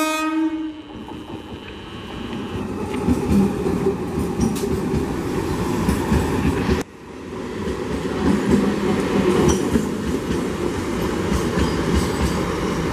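Electric multiple unit local train's horn sounding, cutting off just under a second in. The train then runs past at speed, its wheels rumbling and clattering over the rail joints, with a brief sudden drop in the sound about seven seconds in.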